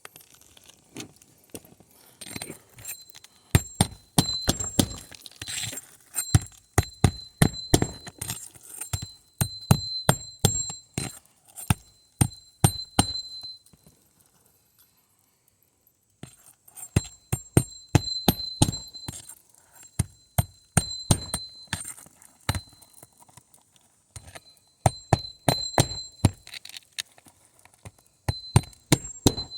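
Hammer driving roofing nails to fasten an asphalt shingle back down: rapid series of sharp metallic strikes, each with a high ringing tone, in two long runs with a short pause halfway through.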